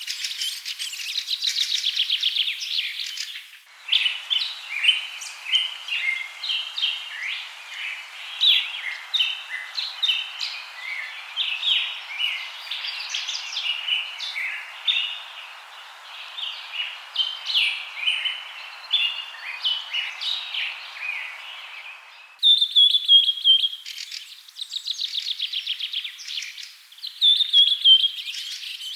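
Birds chirping and calling in three spliced recordings. First comes a fast trill. About 4 s in it changes to a dense chorus of many short chirps from several birds over a soft hiss, and about 22 s in to repeated short falling whistles mixed with fast trills.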